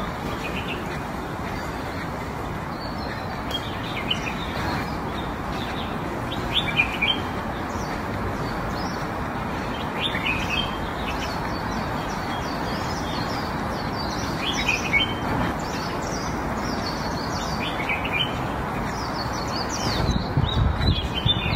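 Small birds chirping in short, quick clusters every few seconds over a steady outdoor background hiss. Low rumbling thumps come in near the end.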